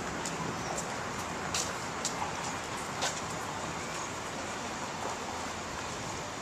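Steady outdoor background noise, with a few short sharp clicks about one and a half, two and three seconds in.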